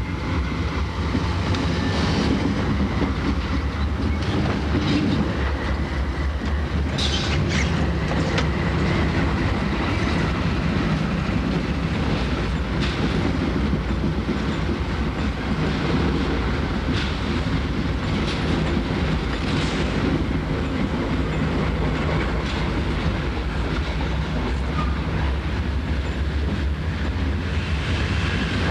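Train rolling steadily past: a continuous low rumble with the clickety-clack of wheels over rail joints and a faint wheel squeal.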